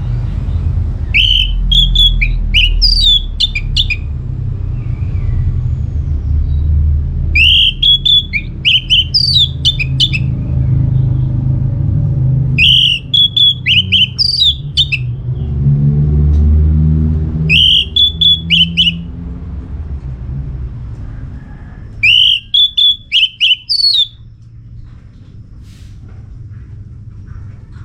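Orange-headed thrush singing: five short runs of quick, varied whistled phrases a few seconds apart, over a steady low rumble that drops away after the last run.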